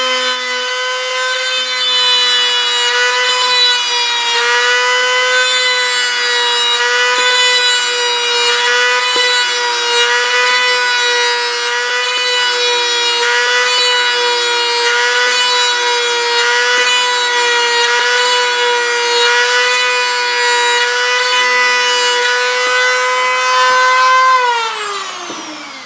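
Dremel rotary tool spinning a brass tube bit to press rivet impressions into the model's skin: a steady high whine that wavers slightly as the tube bears on the surface. Near the end it is switched off and winds down in a falling whine.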